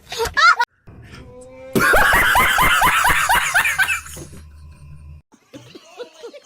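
A person laughing: a loud run of quick, falling 'ha-ha' pulses starting about two seconds in and lasting about two seconds, after a brief snatch of voice at the start.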